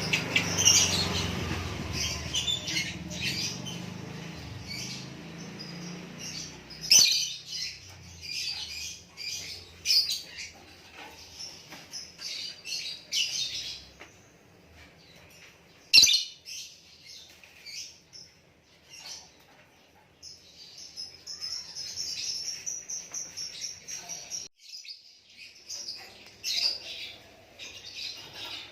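A songbird singing in short, sharp high chirps and trilled phrases, separated by brief pauses. A single sharp click comes about halfway through.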